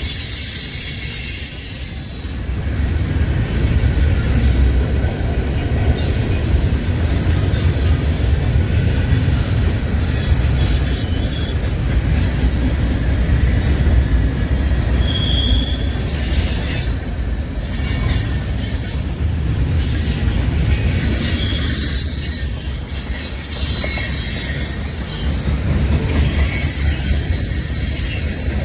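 Norfolk Southern mixed freight train's cars rolling past, a steady low rumble of wheels on the rails with short high-pitched wheel squeals here and there.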